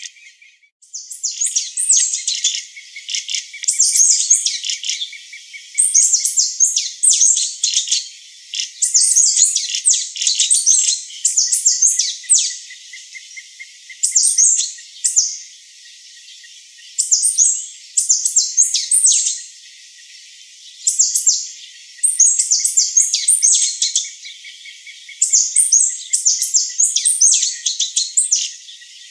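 Pearly-breasted conebill (Conirostrum margaritae) singing: high, thin, rapid chirping phrases of about a second each, repeated every second or two, over a faint steady insect hum.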